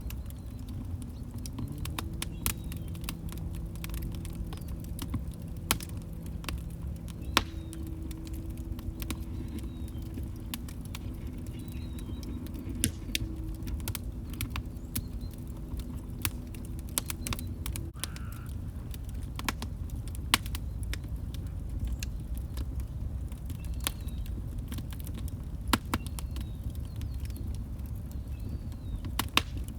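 Log fire crackling: irregular sharp pops and snaps over a steady low rumble of the flames. A faint low tone runs under it for the first half and stops about eighteen seconds in.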